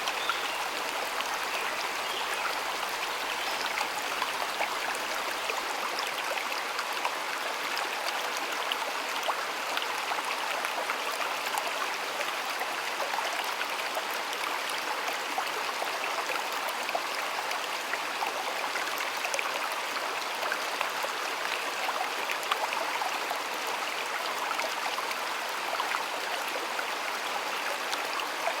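A shallow stream flowing steadily, a constant splashing rush of water with fine trickling detail.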